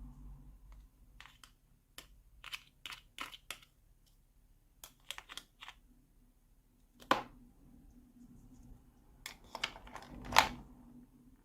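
Small plastic pieces of a miniature toy kitchen set being handled: scattered light clicks and taps in short clusters, with a sharper knock about seven seconds in and the loudest tap near the end.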